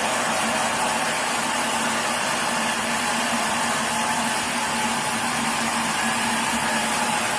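Sawmill machinery running at a steady, unchanging pitch: a loud, even mechanical noise with a constant tone in it.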